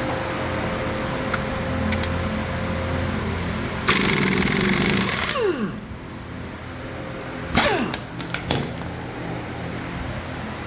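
Impact wrench running in one burst of about a second and a half that winds down with a falling whine, then a few short rattling bursts about two seconds later, over a steady background hum.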